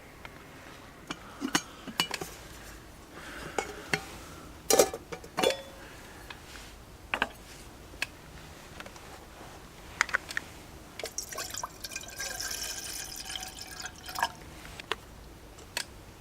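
Scattered clinks and knocks of glass and tableware, with liquid poured into a glass for a couple of seconds about two-thirds of the way through.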